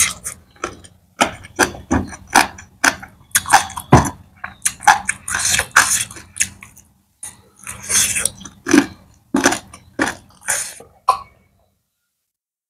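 Wet chewing and lip-smacking of someone eating curried chicken off the bone with their fingers: a quick, irregular run of sharp mouth smacks and sucks that stops about a second before the end.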